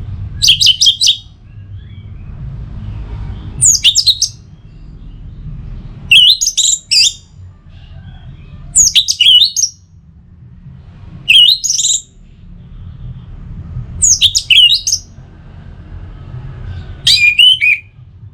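Orange-headed thrush (Anis Merah) singing: seven short phrases of quick, high whistled notes, each about a second long, repeated every two to three seconds.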